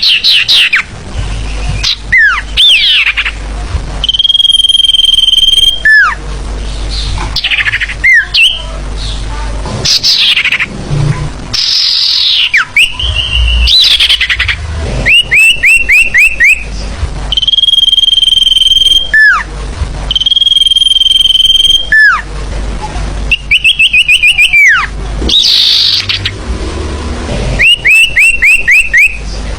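Sirtu bird lure recording: loud, busy forest-bird calls, with long steady whistles alternating with quick runs of short falling notes and sharp down-slurred calls, repeating over and over.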